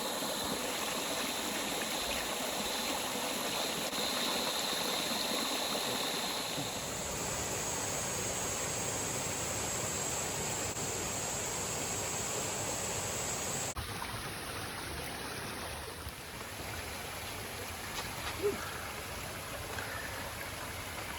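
Rushing of a rainforest stream, a steady even wash of water. A steady high buzz runs over it, jumping higher in pitch about 7 s in and stopping abruptly about 14 s in, after which the water sound continues a little quieter.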